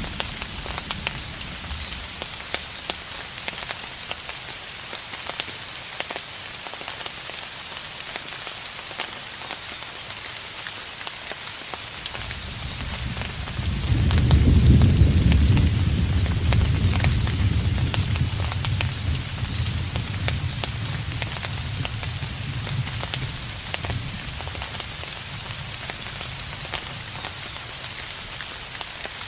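Steady rain with scattered drops ticking on a surface; about halfway through, a distant roll of thunder rumbles low, swells over a couple of seconds and slowly dies away.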